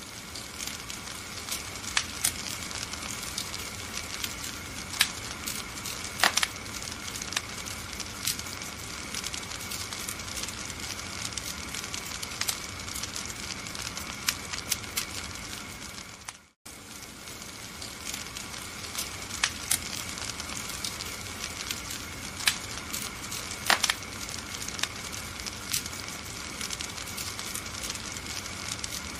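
Wood fire burning in a fireplace: a steady hiss with irregular sharp crackles and pops. The sound cuts out for an instant about 16 seconds in, then resumes.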